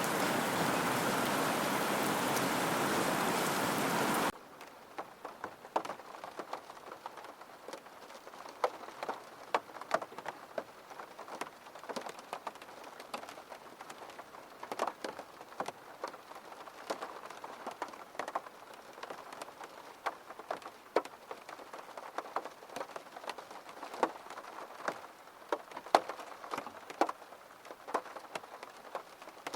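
Heavy, steady rain that cuts off suddenly about four seconds in, giving way to lighter rain with many separate drops tapping close by.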